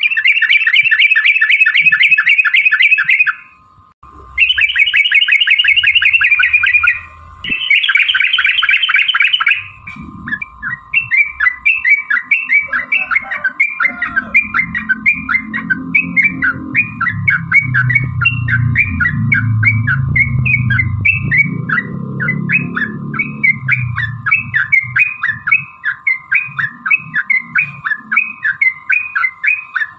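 Yellow-vented bulbul (trucuk) song: three long, fast, chattering rattles in the first ten seconds, then a run of quick separate chirping notes, several a second. A low rumble sits in the background midway.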